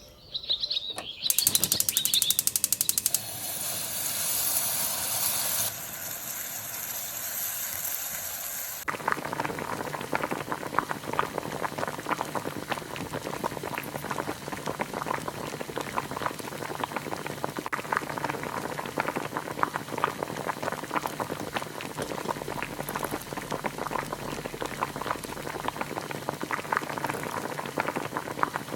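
A pot of chicken soup boiling: a dense, steady crackle of small bubbles popping. Before that, the first nine seconds hold a loud rapid buzz and then a hiss.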